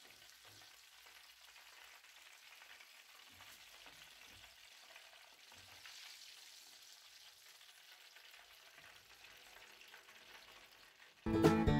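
Chicken seekh kababs frying in hot oil in a pan, a faint steady sizzle, with a few soft taps as a slotted spoon lifts them out. Loud plucked-string music starts abruptly near the end.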